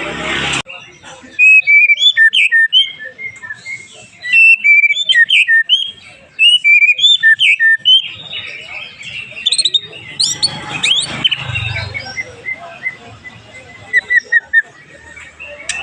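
White-rumped shama (murai batu) singing: bursts of fast, varied whistled and chattering phrases, with high up-sweeping notes in the middle and a brief rush of noise at the very start.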